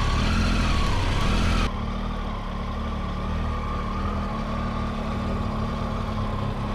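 Motorcycle engine running with wind hiss, its pitch wavering slightly. Under two seconds in the hiss cuts off abruptly and the level drops, leaving a steady, quieter engine hum like idling.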